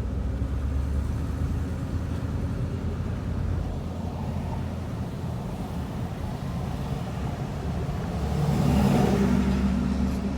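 1959 Imperial's 413 V8 running on the road, heard from inside the cabin with road noise. The engine grows louder for a second or so near the end.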